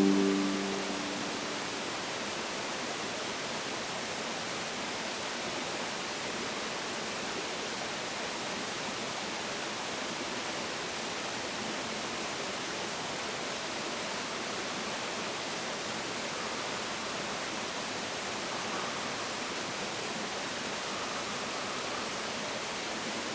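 Steady, even rushing of water, with no change through the stretch.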